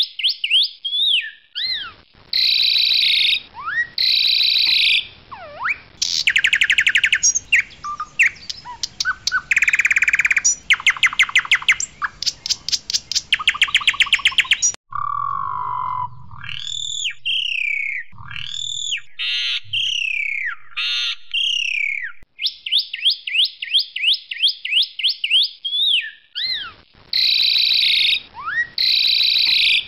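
Asian pied starling singing a loud, varied song: quick rattling runs of repeated notes, clear whistles that slur up and down, and sharp chattering notes, with a stretch of lower whistles about halfway through.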